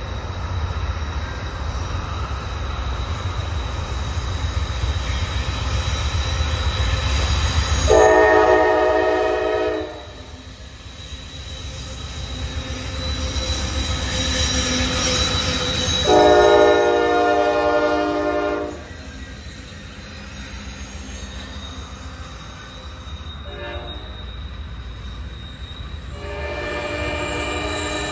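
A diesel freight locomotive approaches and passes, its engine rumble building during the first ten seconds. Its multi-note horn sounds long, long, short, long, the grade-crossing signal, with blasts starting about 8 s, 16 s, 23 s and 26 s in. After it passes, the freight cars roll by.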